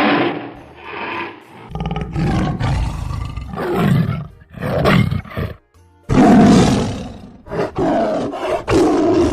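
Tiger roaring and growling in a series of loud roars about a second apart, the loudest about six seconds in.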